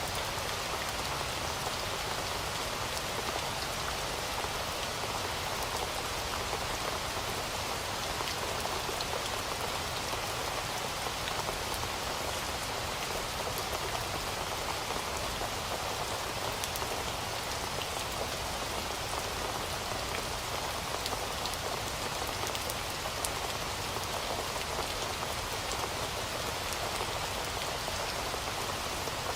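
Heavy rain falling steadily, a dense even hiss with many small drop impacts on surfaces.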